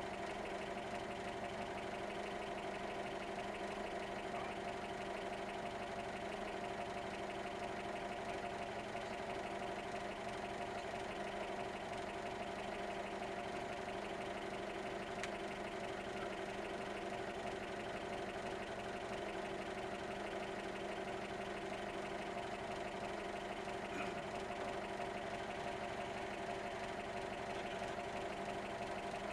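1964 Volkswagen Beetle engine idling steadily, heard from inside the cabin while the car stands still.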